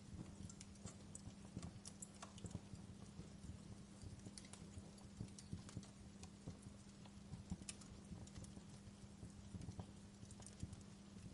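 Wood fire in a fireplace crackling, with irregular snaps and a few sharper pops of burning logs over a faint steady low hum.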